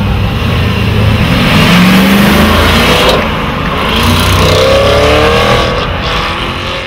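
Porsche car engine accelerating as the car pulls away, its revs rising about two seconds in, briefly dropping, then rising again near the end.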